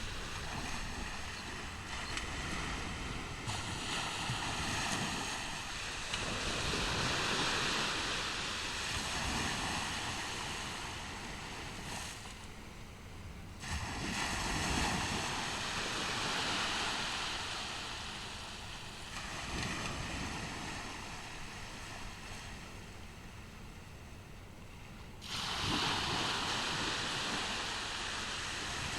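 Ocean surf on a beach: waves breaking and washing up the sand in slow swells that rise and ebb. A wave crashes suddenly about halfway through and again near the end.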